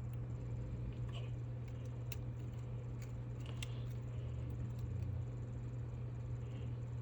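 Faint scattered clicks and light taps of small tools and wires being handled while a connection is made on a circuit board, over a steady low hum.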